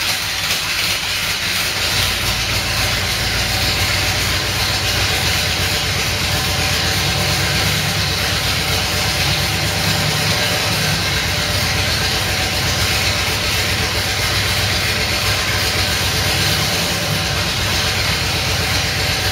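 Aluminum-block 482 side-oiler V8 with Weber carburetors running steadily on its first startup, with a hiss over the engine note.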